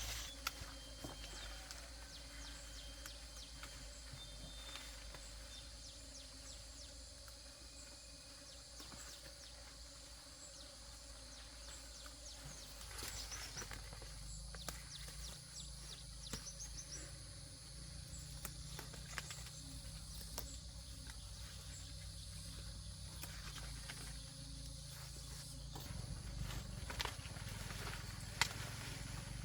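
Outdoor rural background: a steady high insect drone, a few short chirps in the middle, and scattered light clicks and knocks.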